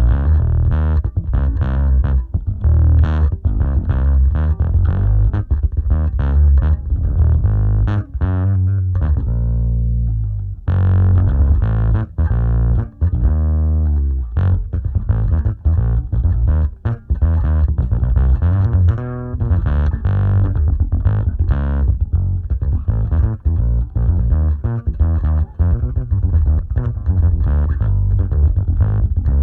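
Electric bass playing a riff through a distortion preamp and a cabinet impulse response of an Aguilar 4x10 with tweeter, blended from an SM57 and an RE20 mic; heavy low end with the top rolled off above the cabinet range. One note rings out and the playing stops briefly about ten seconds in, then resumes.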